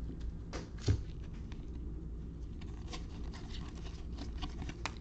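Trading cards being handled and flipped through, with scattered light clicks and taps (the sharpest about a second in) over a steady low hum.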